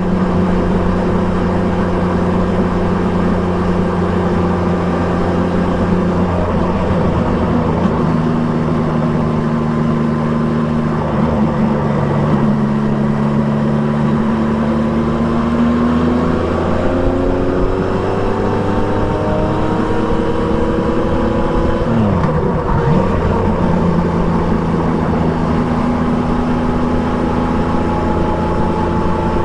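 Triumph Trident 660's inline three-cylinder engine running through an Akrapovic exhaust. The engine note holds steady, climbs for several seconds past the middle, drops sharply, then settles steady again.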